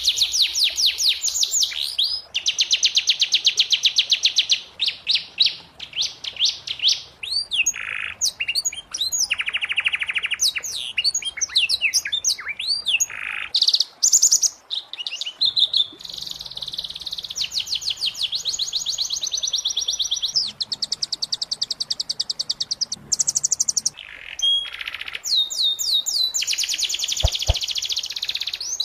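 Domestic canary singing a long, continuous song of rapid high trills and rolling phrases, switching from one trill to the next every second or two with only brief breaks.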